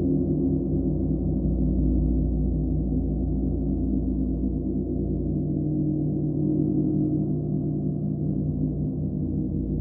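Gong ringing on steadily, a dense wash of many overlapping low tones that waver and shimmer, with no single new strike standing out.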